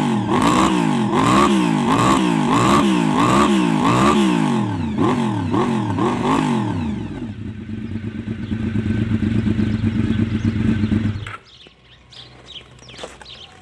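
Honda VFR750's V4 engine on its stock exhaust being blipped quickly and repeatedly, the revs rising and falling about once every 0.7 s. About 7 seconds in it settles to a steady idle, and about 11 seconds in the engine is switched off and stops abruptly, leaving faint ticks.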